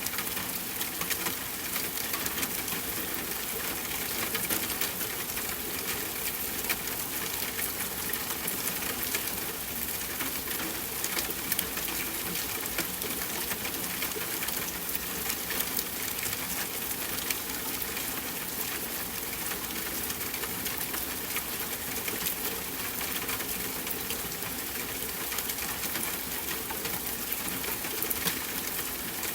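Steady rain with a wood fire crackling: frequent small pops and clicks over an even hiss.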